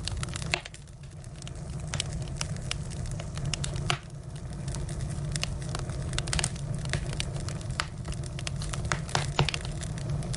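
Firewood burning, with irregular sharp crackles and pops over a steady low rumble.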